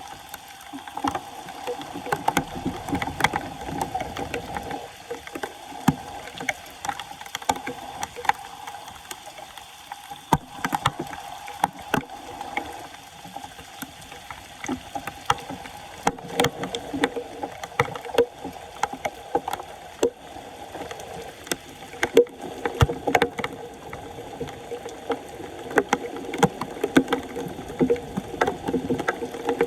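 Floodwater splashing and sloshing, broken by frequent sharp clicks and knocks, typical of a clogged street storm drain being worked clear by hand.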